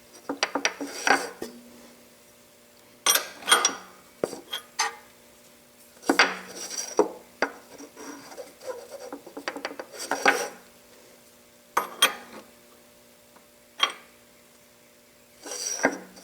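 Wrench working the feed-roller height-adjusting nuts on a Yates American J180 planer: irregular bursts of metal clinks and short rasping turns, with brief pauses between, over a faint steady hum.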